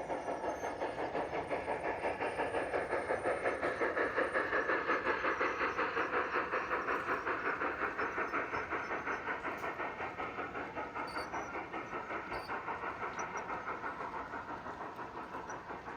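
Garden-railway model locomotive running, with a steady rhythmic chuff about four times a second. It grows slightly louder over the first few seconds, then slowly fades.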